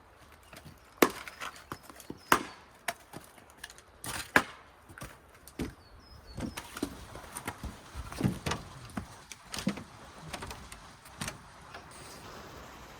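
Wood being chopped with a blade: a run of sharp, irregular blows and knocks that thin out toward the end.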